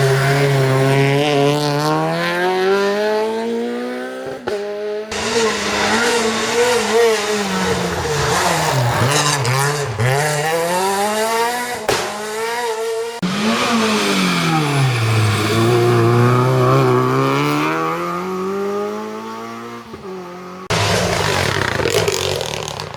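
Rally car engines revving hard as the cars drive a special stage. The pitch climbs and drops over and over with gear changes and lifts for corners. The sound breaks off sharply and starts again a few times, about 5, 13 and 21 seconds in.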